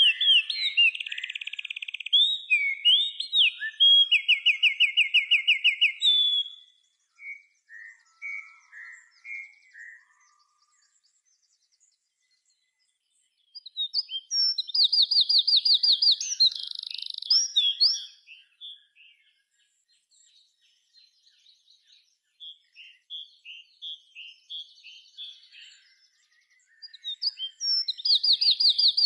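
A songbird singing loud songs of rapid trills and varied notes: one bout at the start, another about halfway through and a third near the end, with softer scattered notes between them.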